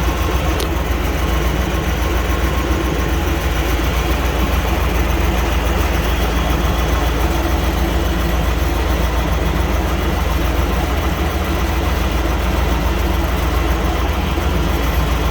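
1998 Chevy C1500 pickup's V8 idling steadily, running again on a new fuel filter after a clogged one had kept it from starting.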